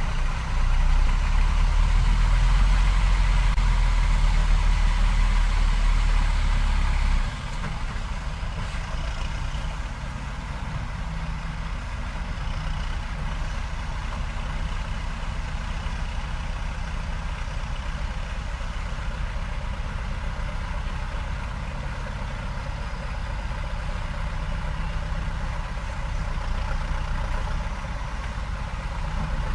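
Heavy diesel engines running: loud and low for about the first seven seconds, then dropping abruptly to a steady idle.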